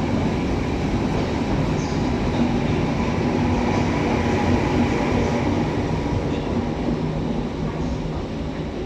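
A train running at the platform: a steady rail rumble with a low motor hum, easing off slightly near the end.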